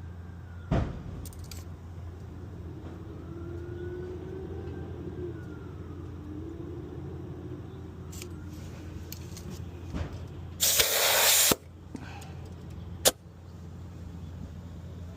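A short, loud hiss of compressed air, just under a second long, about ten seconds in, from the truck tire inflator hose's valve end, over a steady low hum, with a few sharp clicks of metal fittings.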